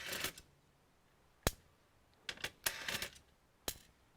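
Sharp clicks and light clattering from small tools and parts being handled during disassembly of an all-in-one computer. There is a click at the start, another about a second and a half in, a quick run of rattling clicks around two and a half seconds, and one more sharp click near the end.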